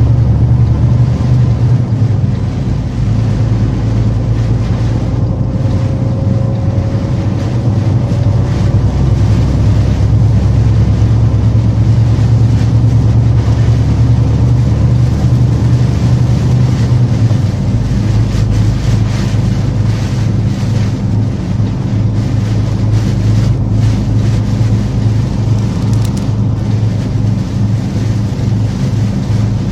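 Steady low rumble of a truck driving, with a hiss of wind and road noise over it.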